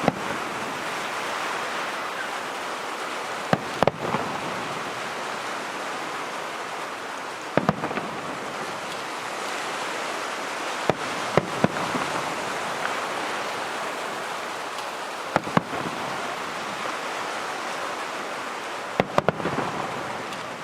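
Aerial fireworks shells bursting: sharp bangs, mostly in close pairs, about every three to four seconds, over a steady hiss.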